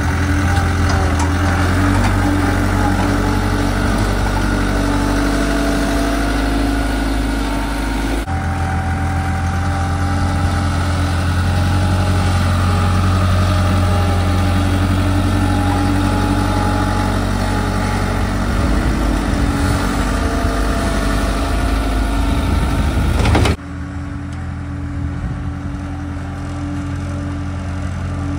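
Skid steer engine running steadily with wavering mechanical whine over it. The sound breaks about eight seconds in and turns suddenly quieter near the end.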